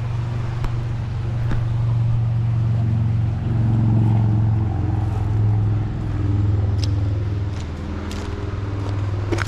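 A steady low engine drone that swells about four seconds in and again a little later, with a few faint clicks near the end.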